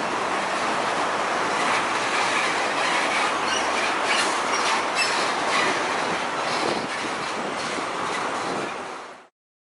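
Heavy trucks going past, a loud steady rush of engine and tyre noise with a few short clicks and faint high squeaks midway, cutting off suddenly near the end.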